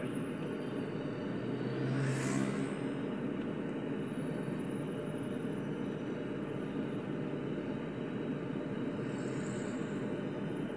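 Engine running with a steady low rumble, with a brief louder rushing noise about two seconds in.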